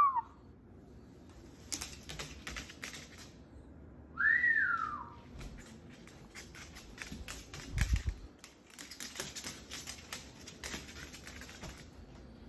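A single whistle rising and falling in pitch about four seconds in, among irregular light clicking and tapping as a Moluccan cockatoo handles toys and blankets. There is a dull thump about eight seconds in.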